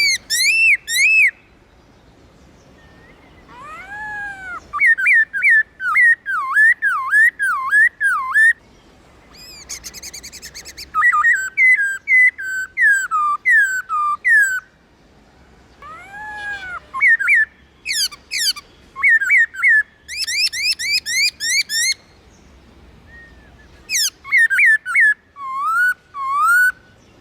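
Black-throated laughingthrush singing: loud whistled phrases of rapid notes that swoop up and down. The song comes in about five bursts with short pauses between them.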